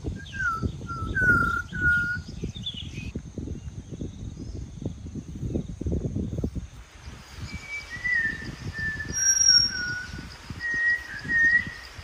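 Malabar whistling thrush singing its human-like whistle: a few short sliding whistled notes at the start, then after a pause a longer run of whistles in the second half. A low uneven rumble runs underneath.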